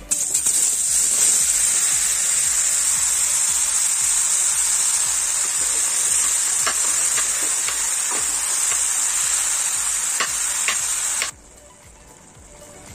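Button mushrooms sizzling loudly as they fry in hot oil in a kadai, stirred with a wooden spatula, with a few light clicks. The sizzling cuts off suddenly near the end, leaving something much quieter.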